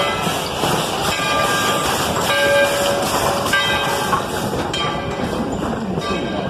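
Narrow-gauge passenger train rolling on the rails, a steady running noise broken by brief high-pitched squeals from the wheels.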